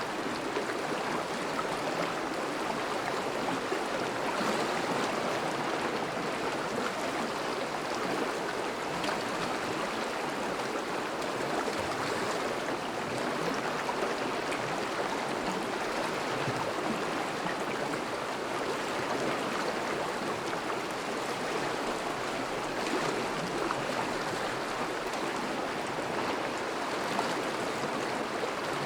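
River water flowing steadily over and around melting ice, a continuous rushing and burbling.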